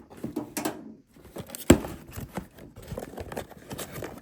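Cardboard shipping box being worked open by hand: crinkling and tearing of packaging with scattered scrapes and clicks, and one sharp knock a little under two seconds in.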